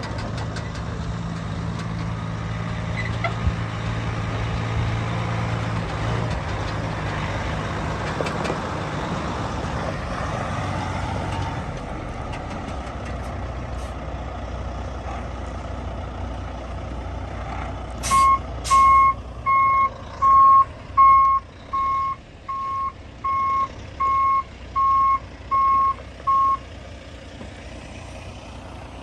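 2005 Peterbilt tandem-axle manure truck's diesel engine running, louder for the first few seconds and then settling to a steady idle. About two-thirds in come two short hisses of air, then its backup alarm beeps about a dozen times at a steady pace while it reverses.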